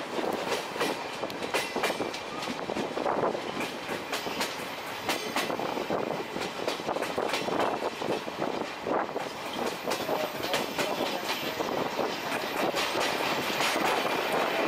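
Steam-hauled passenger train running along the track, heard from aboard the coaches: a rumble with wheels clicking and knocking over the rail joints, getting slightly louder toward the end.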